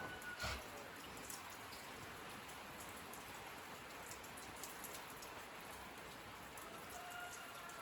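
Steady rain falling, with separate drops hitting a surface and one louder drop about half a second in. A faint, thin drawn-out tone sounds near the end.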